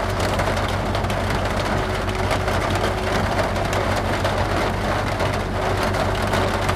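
Rain pattering steadily on a vehicle with its engine idling, heard from inside the cabin: a constant hiss of drops over a low engine hum.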